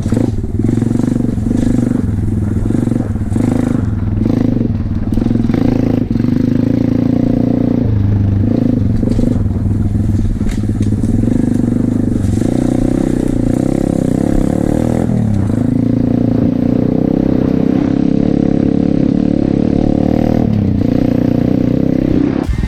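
Pit bike engine running hard as it is ridden, its pitch rising and falling with the throttle and dipping sharply several times, around 8, 15 and 20 seconds in.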